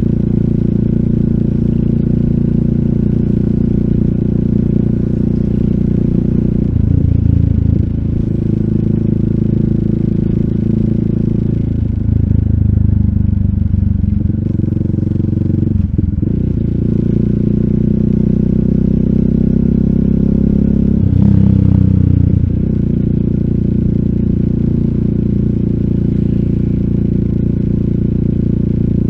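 RUSI Classic 250Fi motorcycle engine running under way through an Eli's Muffler full exhaust with a slip-on bullet pipe and dB killer. The engine note shifts in pitch several times, with changes about 7, 12, 16 and 22 seconds in.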